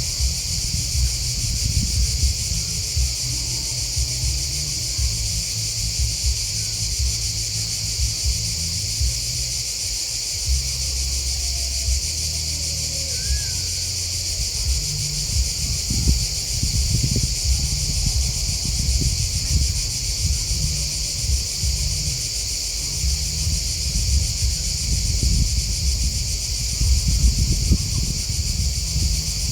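Continuous high-pitched chorus of grasshoppers and crickets chirping, steady and unbroken, over an uneven low rumble.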